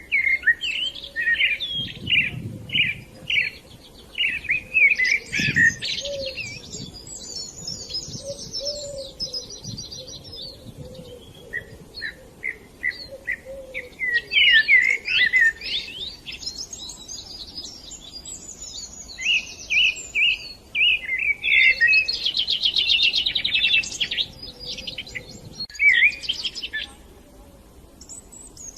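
A flock of budgerigars chirping and chattering, with busy warbling and bouts of rapid buzzy trills.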